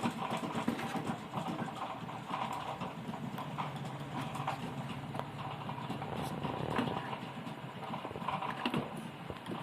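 Irregular small clicks and taps of hand tools working on a TV's circuit board, over a steady low hum.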